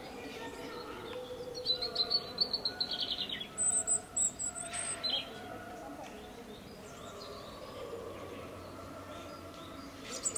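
A small bird chirping: a fast, high trill lasting about two seconds, then a few sharper, higher chirps, over a faint steady background.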